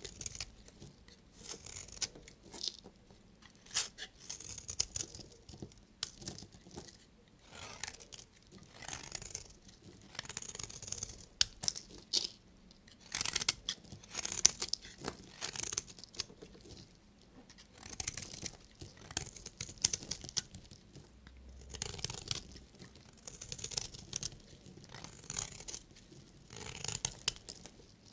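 Knife cutting through bars of soap: crisp, crunchy scraping strokes, coming in short clusters every second or two.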